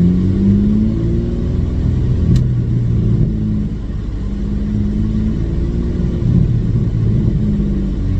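Porsche Cayman S 3.4-litre flat-six with its muffler deleted, droning loudly under way. The revs climb in the first second, then hold fairly steady with small rises and falls.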